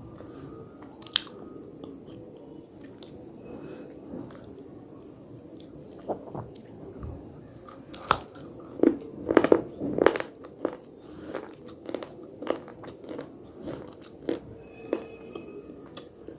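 A person biting and crunching hard, brittle pieces, with scattered sharp cracks and a run of loud crunches about halfway through.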